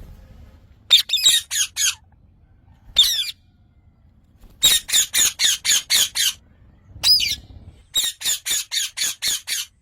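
Parrot squawking in quick runs of short calls, several a second, with short pauses between the runs.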